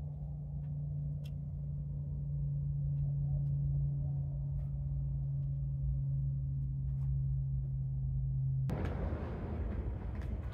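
A steady low hum over a rumble, with a few faint clicks. Near the end it breaks off abruptly into a rougher rustling noise.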